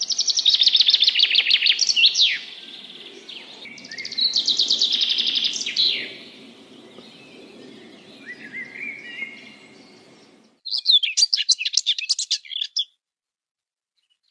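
Songbirds singing: two loud song phrases of about two seconds each, rapid repeated notes ending in a flourish, then quieter notes. Near the end a different bird's rapid, jumbled song starts abruptly and then cuts off into silence.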